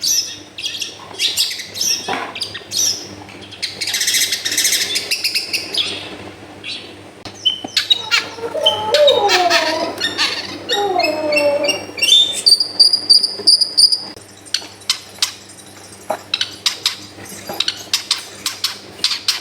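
Long-tailed shrike (cendet) singing vigorously in full song. The song runs through rapid sharp chattering notes, a harsh rasping burst, a stretch of lower bending warbles and clear held whistles, then back to chattering, over a steady low hum.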